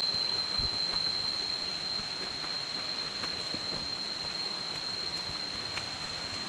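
Jungle insects droning: one steady high-pitched tone, with a few faint scattered clicks.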